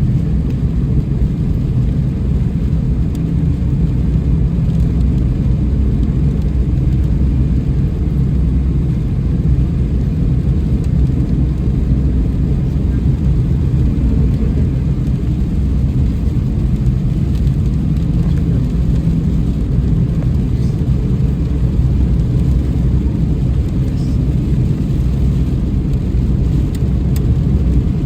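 Car driving in the rain: a steady low road-and-engine rumble, with a few faint taps of raindrops.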